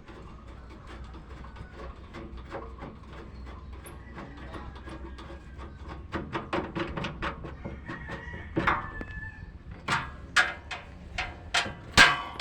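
A series of sharp knocks and taps from hand tools working on a motor tricycle's engine. They are faint and scattered at first, then come quicker and louder over the last few seconds.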